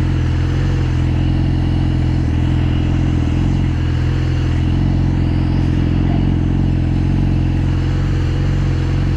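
Yamaha R6's inline-four engine running at a steady engine speed, holding one even pitch with no revving.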